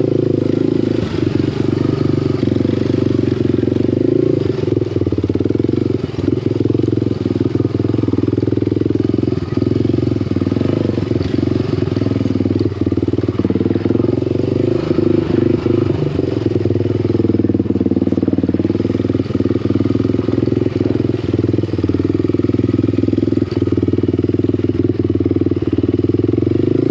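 Small off-road vehicle engine running steadily while riding, with many short clicks and rattles throughout.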